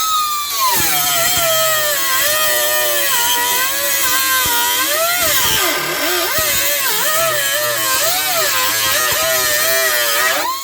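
High-speed cut-off wheel cutting through sheet steel of a truck floor pan. Its whine starts high, drops and wavers as the wheel bites and is pushed along the cut, then rises again and stops near the end.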